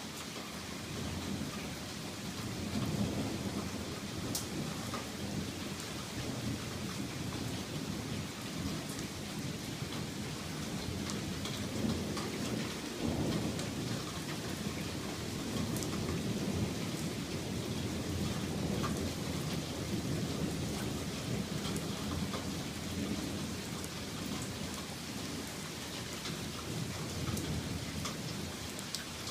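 Steady rain falling in a thunderstorm, with low rumbling thunder that swells and fades several times.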